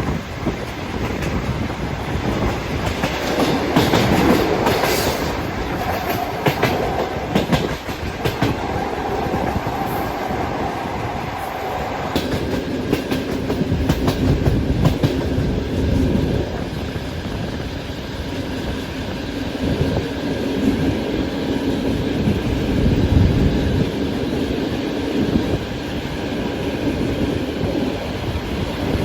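Long-distance passenger train running on the rails, with the clickety-clack of wheels over rail joints under a steady rumble. A higher steady tone holds for a few seconds, then gives way about halfway through to a lower steady hum that runs almost to the end.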